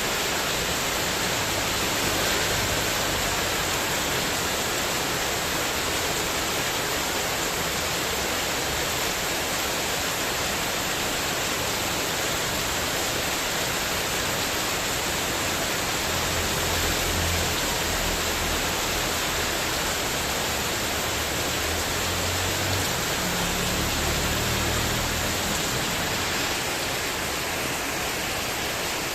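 Heavy rain pouring steadily onto a spandek metal sheet porch roof, with brief low rumbles about halfway through and again a few seconds later.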